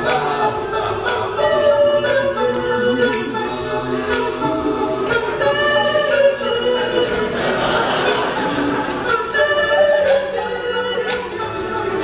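All-male a cappella group singing a wordless instrumental passage in harmony, with vocal percussion keeping a steady beat.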